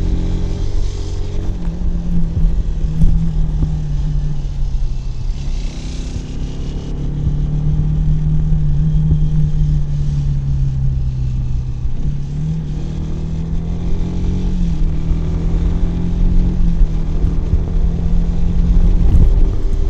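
Kawasaki W175's single-cylinder engine and exhaust running under way. The engine note climbs and falls as the throttle is opened and rolled off, with several sudden steps in pitch, typical of gear changes.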